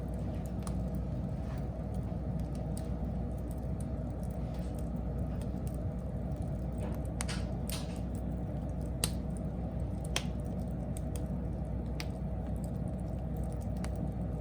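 Wood fire burning: a steady low rush with scattered crackles and pops, a few sharper snaps in the middle.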